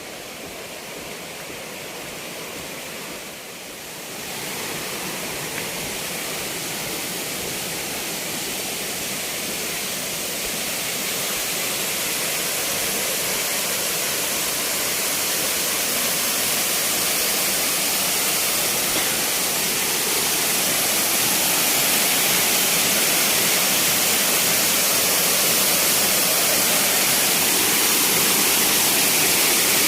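Waterfall rushing: a steady hiss of falling water that grows gradually louder as the falls are approached, with a jump in loudness about four seconds in.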